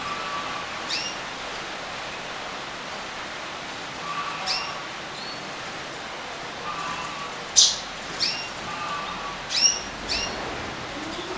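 Canaries giving short chirping calls every second or two, one sharper and louder about two-thirds of the way through, over a steady hiss.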